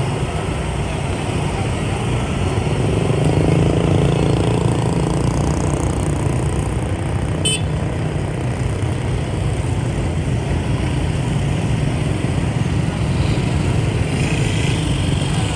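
Dense motorbike traffic: the steady drone of many motorcycle and scooter engines and tyres, heard from a motorbike riding among them. It swells slightly a few seconds in, and there is one short high beep about seven and a half seconds in.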